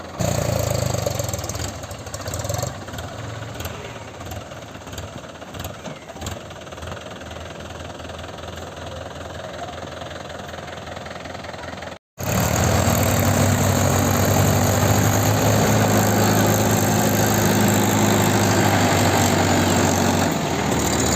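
Mahindra tractor diesel engine running. After a cut about halfway through it comes back louder with a steady low hum, then eases off near the end.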